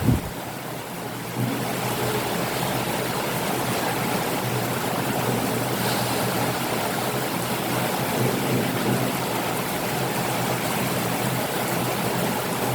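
Steady rain falling, an even hiss that is a little softer for the first second or so and picks up again about a second and a half in.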